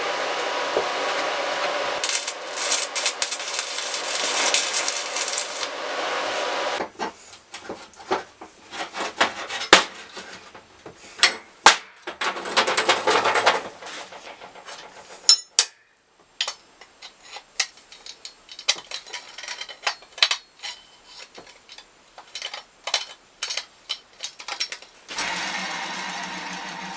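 Workshop sounds: a power tool whirs steadily for about seven seconds, then a long string of sharp knocks, taps and clatters of hand tool work, broken by a brief burst of the tool about halfway through; near the end a motor starts a steady hum.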